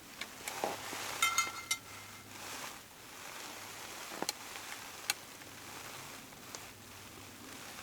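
Scattered light clicks and knocks of small objects being handled. About a second in there is one light clink that rings briefly with a clear pitch, like metal cookware being tapped.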